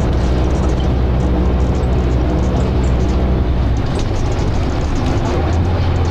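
Dennis Arrow double-decker bus's diesel engine running steadily, heard from inside the bus. Its note changes about four seconds in and settles on a new steady lower drone a little after five seconds, as at a gear change.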